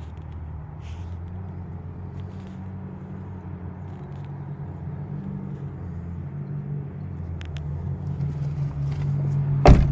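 A vehicle engine idles steadily with a low hum that grows gradually louder. A single sharp clack comes just before the end.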